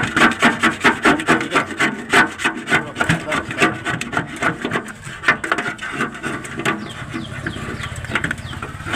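Rapid back-and-forth rubbing strokes, about four to five a second, on a microwave oven's casing as its damaged old paint is rubbed off before repainting. A low steady hum joins in near the end.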